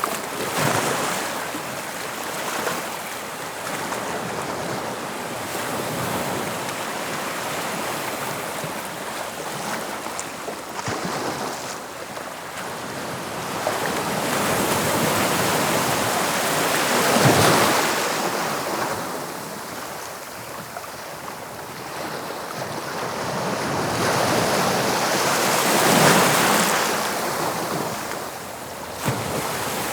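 Waves of the English Channel washing onto the shore: a continuous surf that swells and ebbs, with two bigger waves breaking about halfway through and again near the end.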